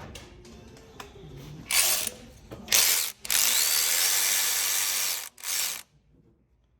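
Cordless power tool running 10mm bolts in: two short bursts, then a run of about two seconds with a rising motor whine, then one more short burst, stopping about a second before the end.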